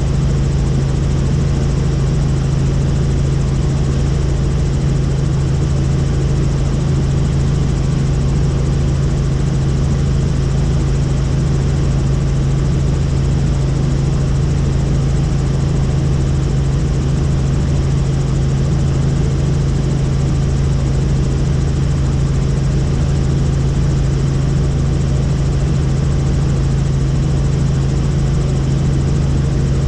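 Helicopter in flight: a loud, steady drone of rotor and turbine with a strong low hum, unchanging throughout.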